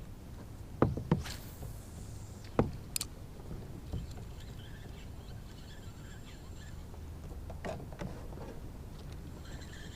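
Scattered knocks and clicks from a kayak and its gear, two pairs early on and another pair about eight seconds in, over a quiet background with faint high chirping.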